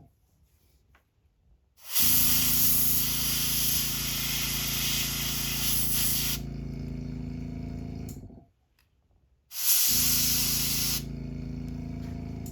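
Airbrush spraying lure paint in two bursts, a loud hiss over a steady motor hum. In each burst the hiss drops off after a few seconds while the hum runs on briefly, then both cut off.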